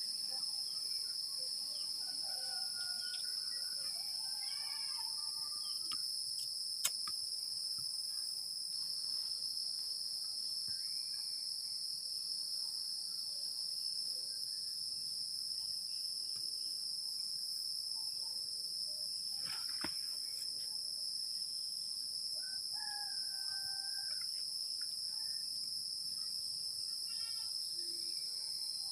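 A steady, high-pitched chorus of forest insects, with a few short faint whistled calls and one sharp click about seven seconds in.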